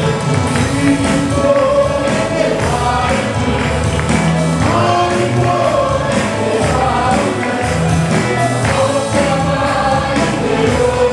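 A congregation or choir singing a gospel worship song with band accompaniment, a steady beat and tambourine.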